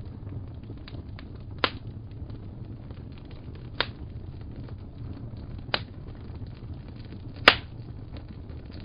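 Wood fire crackling over a steady low rumble, with four sharp pops about two seconds apart, the last one the loudest.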